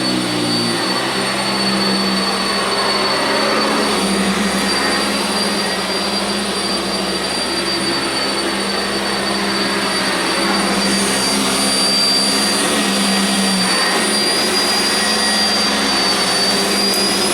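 Sanitaire SC679j upright vacuum cleaner running steadily, its motor giving a loud, steady high-pitched whine that rises slightly near the end.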